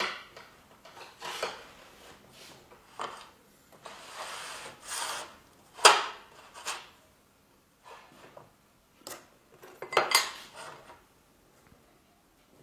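Guide rail and connector bar being handled and fitted together: scattered metallic clinks and scrapes, with a sharp knock about six seconds in and another burst of knocking around ten seconds.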